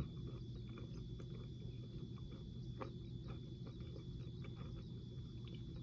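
Faint, scattered mouth clicks from slowly chewing a small chewy candy, over a steady low room hum.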